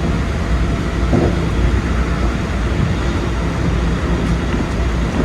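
Keikyu 2100 series electric train running along the line, a steady rumble of wheels and running gear heard from the driver's cab.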